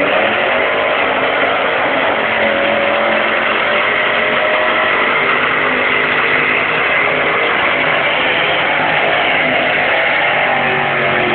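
A pulling vehicle's engine running loud and steady at high revs under load, its pitch shifting slightly over the run.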